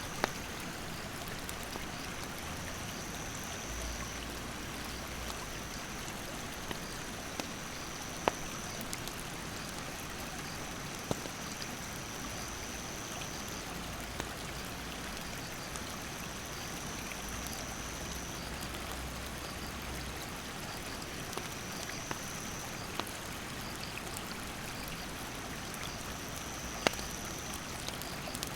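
Mountain stream rushing steadily, with the wood fire giving occasional sharp crackles and pops, the loudest about eight seconds in and near the end. An insect's high thin buzz comes and goes in spells of a few seconds.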